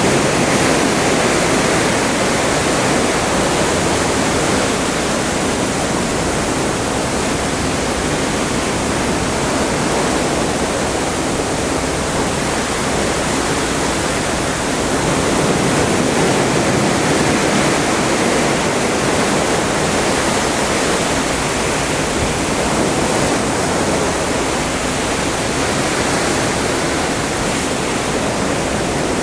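Atlantic seawater rushing past a moving cruise ship: a loud, steady hiss of churning water that swells slightly in level now and then.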